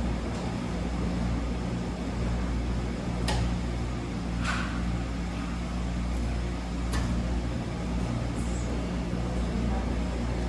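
Wascomat Senior W125 commercial washing machine running mid-cycle: a steady low mechanical hum, with a few sharp clicks or knocks about three, four and a half and seven seconds in.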